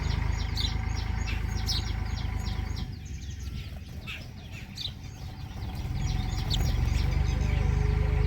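Small birds chirping, many short high chirps in quick succession, over a steady low rumble that fades for a few seconds in the middle and then comes back.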